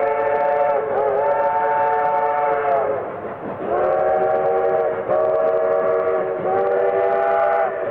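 Steam locomotive whistle sounding a chord of several notes together, blown in a series of blasts: one already sounding and ending just under a second in, a long blast of about two seconds, then three shorter blasts, each dropping slightly in pitch as it ends.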